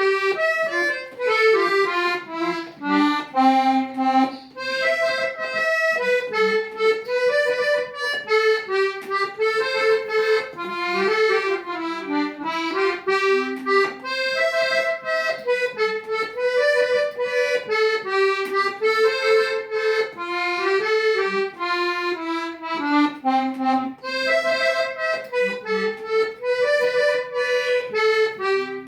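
Accordion music: a melody of short held notes stepping up and down over chords, without singing.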